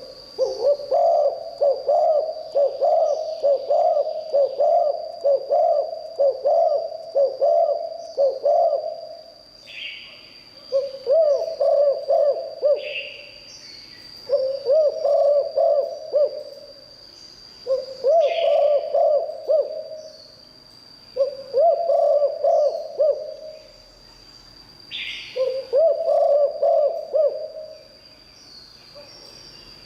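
Spotted dove cooing: one long run of coos, then five shorter cooing phrases every three to four seconds, each led by a brief higher note. A steady high whine runs underneath.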